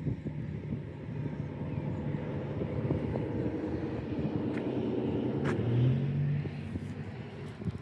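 A motor vehicle passing by: a low engine hum that swells to a peak about six seconds in and then fades away.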